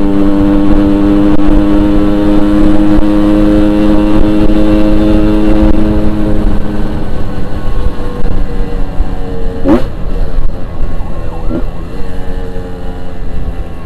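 Yamaha RX-King's two-stroke single-cylinder engine running at steady revs under way, on its stock exhaust. The pitch eases down a little about six seconds in, with a brief quick rise and fall near ten seconds.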